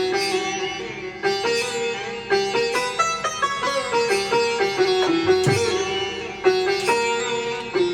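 Instrumental melody interlude from a Maharashtrian band: a twangy, sitar-like lead line played in quick separate notes, without singing or drums.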